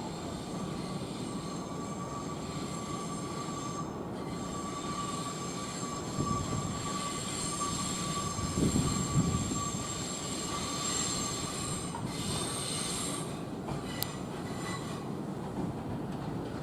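Electric train moving slowly along the platform, its wheels squealing on the rails with steady high-pitched tones over a rumble. The rumble swells louder about halfway through, and a sharp click comes near the end.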